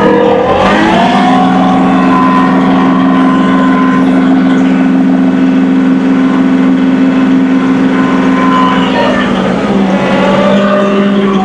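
John Deere 2038R compact tractor's diesel engine revving up about half a second in and holding a steady high speed, then settling a little lower near the end.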